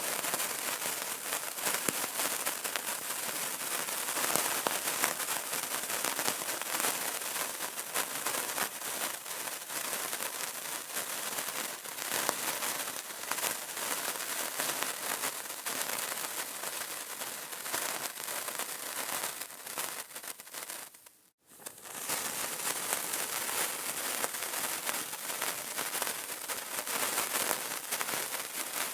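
Burning candle crackling: a dense, continuous run of small pops and crackles. About 21 seconds in it fades out to near silence for a moment, then comes back.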